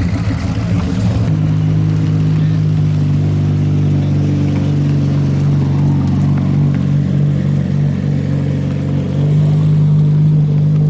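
Lamborghini Murciélago V12 running at low revs as the car creeps past, a steady deep drone that swells slightly near the end. In the first second or so, the AC Cobra's V8 is heard pulling away.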